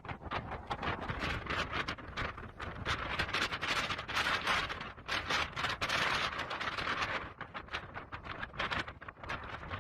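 Wind buffeting the microphone in a blizzard: a rough rushing noise with rapid gusty crackles that swell and fade.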